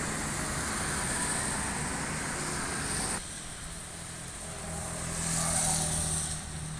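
Steady hiss of rain and wet road noise over a low engine hum. About three seconds in it cuts to a quieter scene in which a vehicle passes on the wet road, swelling and then fading near the end.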